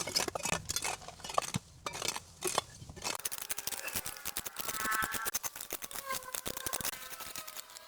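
Hand pruning shears snipping through vines: a dense run of sharp clicks and snips, with a short pitched call about five seconds in.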